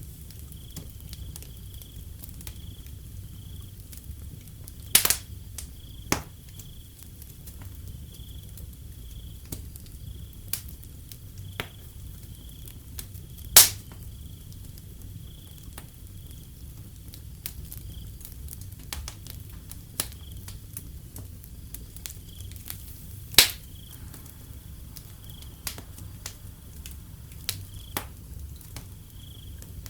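Wood fire crackling with frequent small snaps and three loud pops spread through, over a low steady rumble. Crickets trill steadily and high in the background.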